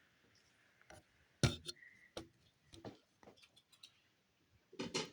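Plastic Duplo bricks clicking and knocking as the model is handled: scattered light clicks, the sharpest about a second and a half in, and a few more near the end.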